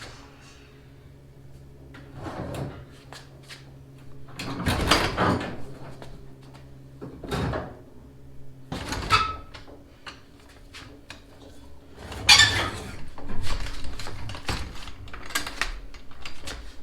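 Irregular clunks, knocks and scrapes of metal parts being handled during engine removal work on a VW Beetle, over a steady low hum.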